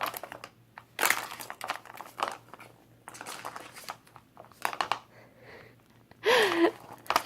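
Cat playing with a crinkly toy: irregular bursts of crinkling and rustling as the toy is batted and pounced on.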